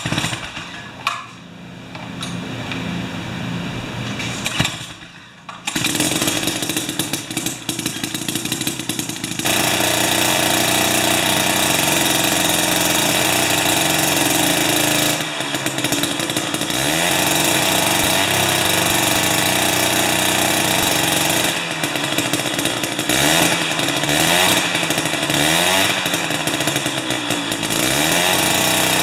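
Small two-stroke engine of a Jiffy ice auger running, getting much louder about six seconds in and again near ten seconds, then revved up and down over and over in the second half.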